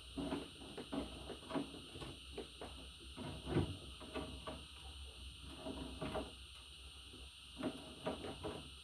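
Irregular light knocks and clicks, a few a second and unevenly spaced, the loudest about three and a half seconds in.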